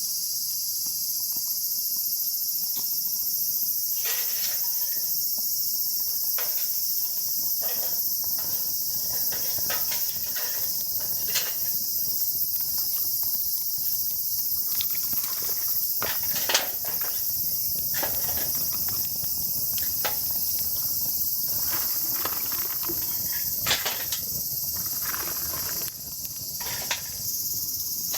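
Steady, high-pitched chorus of insects, with scattered short knocks and clicks through it.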